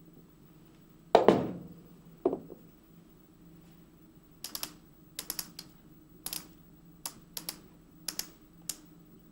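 Metal parts of a rock-drill gearbox being handled: a loud clank with a short ring about a second in and a smaller one a second later, then a run of light, sharp clicks and taps, single and in pairs.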